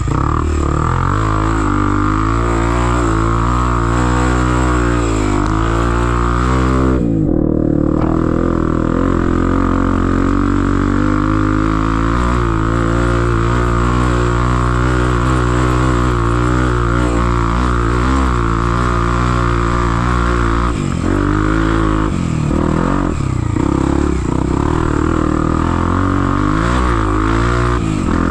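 Trail motorcycle engine running continuously under load, its pitch wavering up and down with the throttle. The higher sound is briefly muffled about a quarter of the way in.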